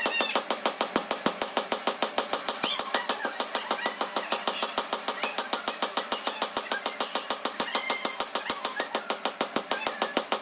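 Forging hammer beating hot steel on an anvil in a fast, evenly spaced run of ringing metal blows, about six a second, without a break.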